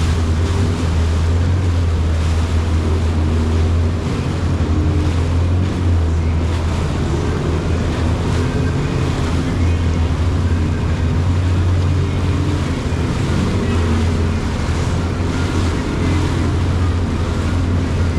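Jet ski engine running steadily under way, a constant low hum, with water rushing past the hull and wind buffeting the microphone.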